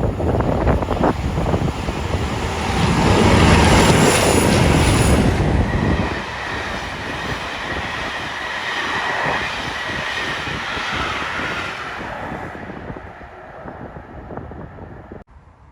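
A diesel-hauled train passing close by, loudest a few seconds in, then its wagons running past with a thin squeal from the wheels as the sound fades away.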